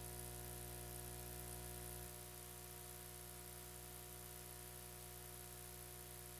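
Steady low electrical hum and hiss, with no other sound; the hum drops a little in level about two seconds in.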